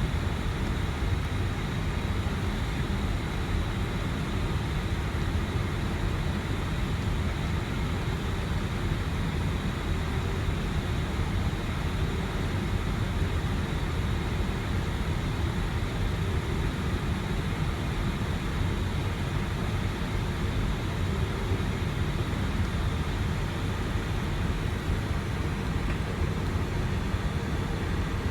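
Steady cabin noise on the flight deck of an Airbus A320: a low rumble under an even hiss of air, with a few faint steady high tones and no change in level.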